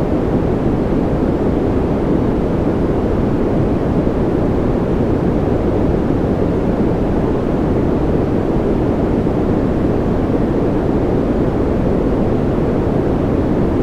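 Continuous generated noise of a white-noise track: an even, unchanging rush, loud and weighted toward the low end so it sounds deep rather than hissy.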